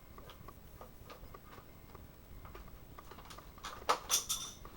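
Small hard plastic clicks and taps as a toy jet's plastic booster is worked into the wing slots, with a quick cluster of louder clicks near the end as the part snaps into place.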